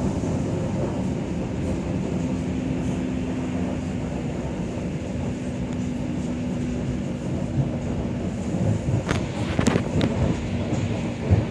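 Interior noise of an ER2R electric multiple unit car: a steady rumble with a held hum through most of it, and a few sharp knocks about nine to ten seconds in.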